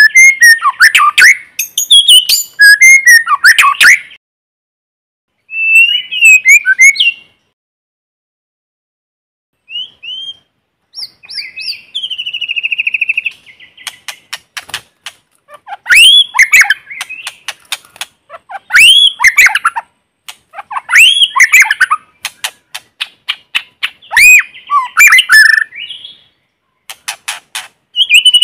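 White-rumped shama singing in varied whistled phrases of sweeping notes, broken by short pauses. About twelve seconds in comes a fast buzzy trill, and there are runs of sharp clicking notes, used here as a lure song to provoke rival shamas.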